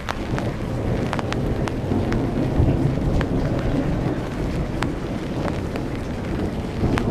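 Rain during a thunderstorm, with separate drops ticking close by over a low rumble that swells through the first few seconds.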